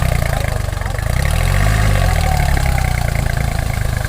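Tractor engine running at a steady idle, a low pulsing note throughout.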